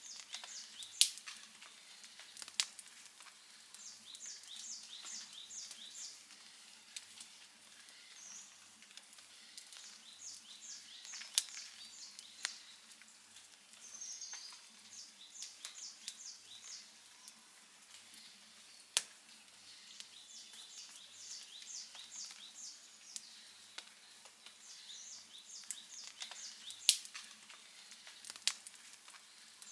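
Outdoor wood fire crackling softly, with a sharp pop every few seconds. A high chirping repeats in short runs in the background.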